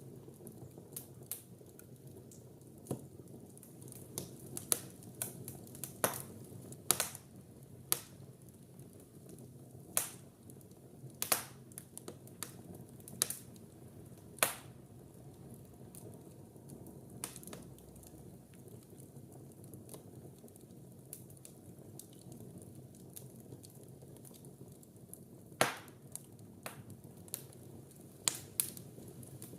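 Wood fire burning in a fireplace: a low steady flame rumble with irregular sharp crackles and pops of burning wood, a handful of them loud and spread unevenly through.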